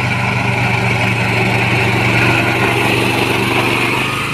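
Small 12 HP mini tractor engine running steadily at an even speed.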